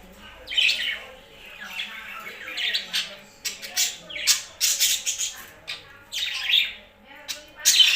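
Pet birds calling repeatedly: a run of short, loud calls, about one or two a second, with the loudest near the end.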